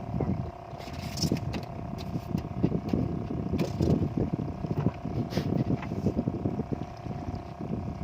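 A boat's motor running with a steady hum, while water slaps irregularly against the hull in choppy waves and wind blows.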